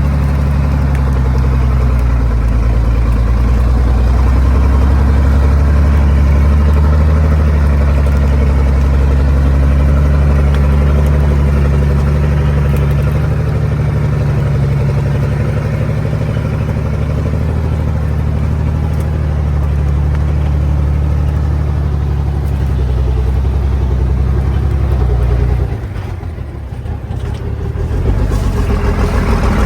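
Small truck's engine running steadily while hauling a load of wood uphill. It eases off for about two seconds near the end, then picks up again.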